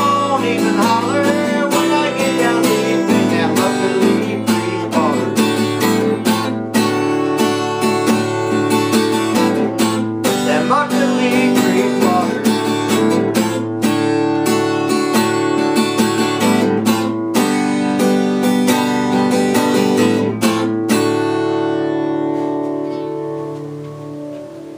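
Acoustic guitar strummed in a steady rhythm to close a country song, ending on a last chord that rings out and fades near the end.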